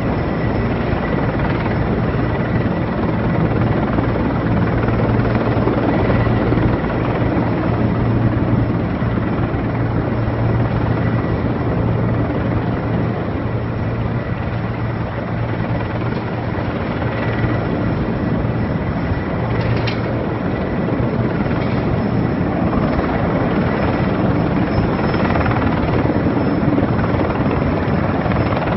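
Erickson Air-Crane twin-turbine heavy-lift helicopter running overhead, a loud steady rotor and turbine drone with a thin high whine.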